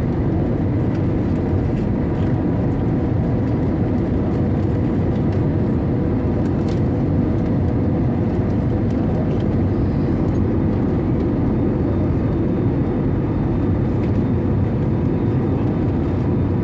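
Steady low rumble of engine and airflow noise inside an Airbus A320-200 cabin in flight, with faint steady hums above it.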